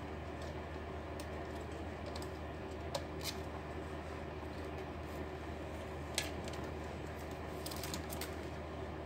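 Scattered light clicks and taps of hands and small tools on a laptop's plastic case and hinge, with sharper clicks about three seconds and six seconds in and a few more near the end, over a steady low hum.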